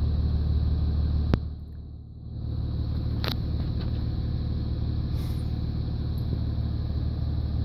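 5.9L 24-valve Cummins diesel idling steadily, heard from inside the truck's cab. A sharp click comes about a second in, the rumble dips for about a second, then it carries on, with another click soon after.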